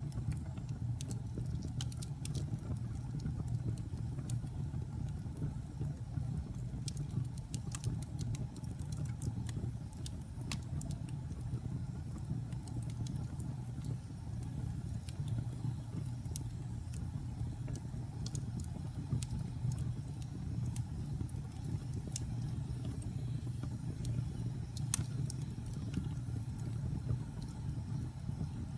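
Fire burning in a fireplace: a steady low roar with scattered sharp crackles and pops, one of the louder ones coming near the end.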